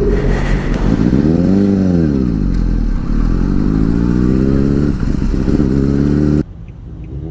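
Motorcycle engine revving as it pulls away: the pitch rises and falls back about a second and a half in, then climbs steadily again over the next few seconds. Near the end the sound cuts off abruptly to a quieter engine note that rises and falls once more.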